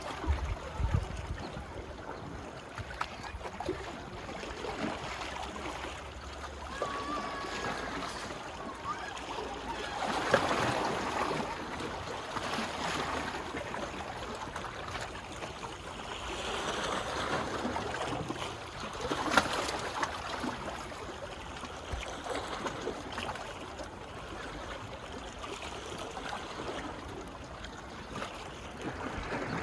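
Small sea waves lapping on a beach, the wash swelling louder and easing every several seconds, with water trickling and gurgling as it runs back.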